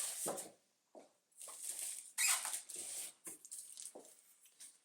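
Irregular short bursts of rustling, scraping and squeaking from parts and packaging being handled.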